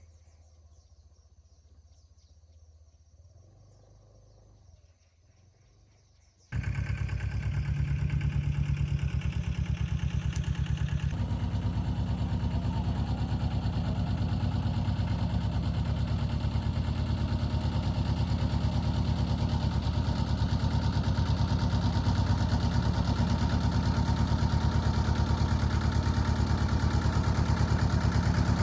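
A faint low hum, then a vehicle engine that comes in abruptly about six seconds in and runs steadily with an even low pulse for the rest of the time.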